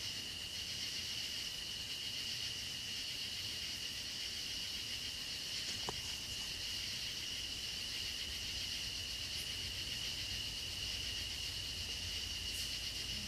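A steady, unbroken chorus of insects singing, one high even tone with a hiss above it.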